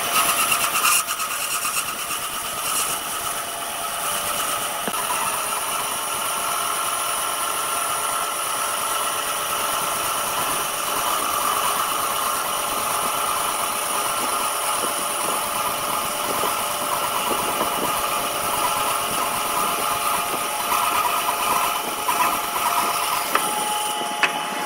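A power tool's electric motor running steadily, with a high-pitched whine.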